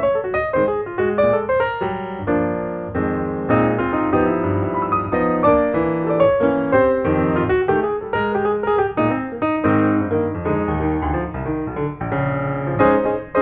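Piano music, a steady flow of melodic notes and chords with no voice.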